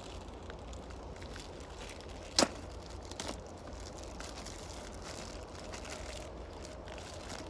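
Steady outdoor background noise with a low rumble, broken by one sharp snap about two and a half seconds in and a fainter click shortly after.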